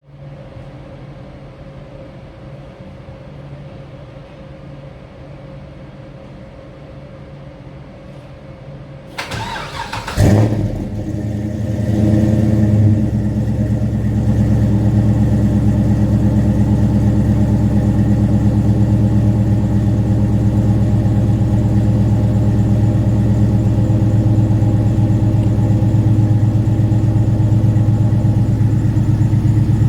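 LS2 6.0-litre V8 in a 1973 Chevy Camaro being cold started: after a low steady hum, the starter cranks for about a second, the engine catches with a loud flare about ten seconds in, rises briefly, and then settles into a steady idle.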